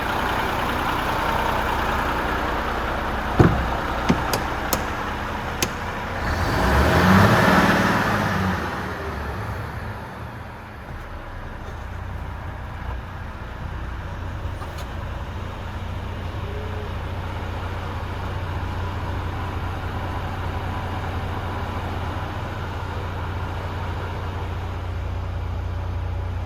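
Renault T430 tractor unit's diesel engine running at idle, a steady low hum. A few sharp clicks come about three to five seconds in, and the sound swells louder for a couple of seconds around seven seconds in before settling back to a steady idle.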